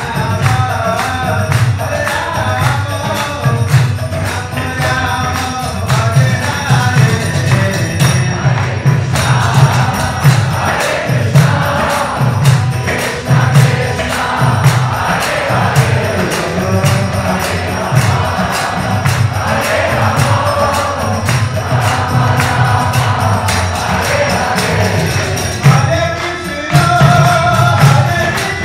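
Devotional kirtan music: voices singing together over a steady drum beat of about two strokes a second, with jingling metal percussion throughout.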